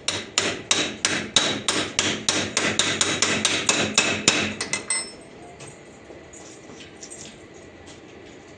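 A hammer beating metal in quick, even blows, about three to four a second, with a short metallic ring on each strike; the hammering stops about five seconds in.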